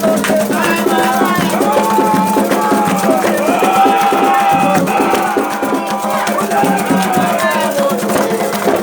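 Voices singing a Candomblé chant to percussion with a shaken rattle.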